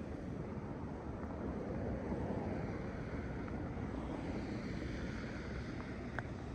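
Steady rush of traffic on a snowy street, with tyre hiss that swells about two seconds in and grows brighter later, over wind buffeting the microphone.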